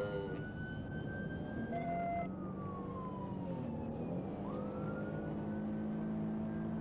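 Police car siren in a slow wail, rising and then falling twice, over a car's steady low engine drone.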